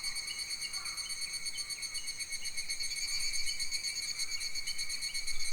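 An insect's steady, rapidly pulsing high-pitched drone, with faint short bird chirps scattered through it.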